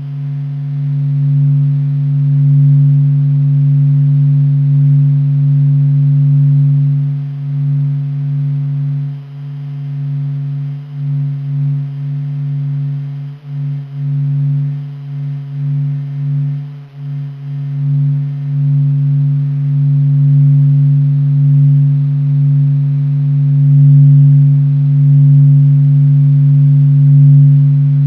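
NASA's sonification of the sun's vibrations, sped up into audible sound: a deep steady drone with a few higher overtones, swelling and dipping in loudness through the middle and steadying again near the end.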